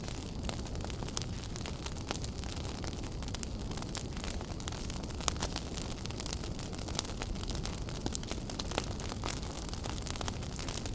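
Wood fire burning in a fireplace: a steady low rumble of flames with frequent sharp crackles and pops, a few louder snaps about five, seven and nine seconds in.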